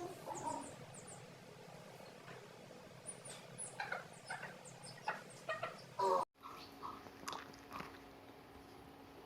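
Chicks peeping in short, high, falling chirps, with a few lower calls from the hens mixed in. The sound cuts out abruptly for a moment about six seconds in.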